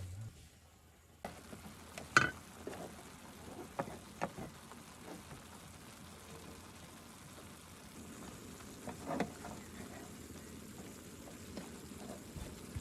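Food frying and sizzling, with scattered sharp clicks and knocks. The sound starts abruptly about a second in; the loudest click comes about two seconds in.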